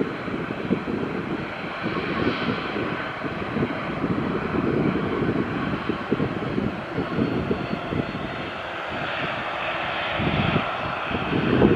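Airliner engines running, a steady rushing noise that swells a little near the end, with wind buffeting the microphone.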